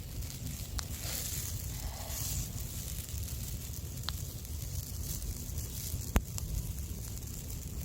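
Wood campfire crackling, with a few sharp pops, the loudest about six seconds in, over a steady low rumble.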